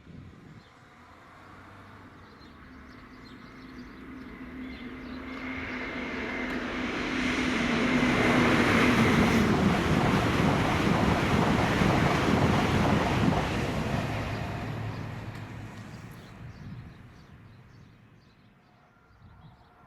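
A train passing at speed on the main line: its rumble builds as it approaches, peaks about halfway through with a whine that drops in pitch as it goes by, then fades away.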